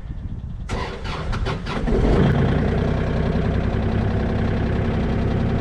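Vehicle engine running: a few sharp clatters about a second in, then the engine grows louder and settles into a steady drone.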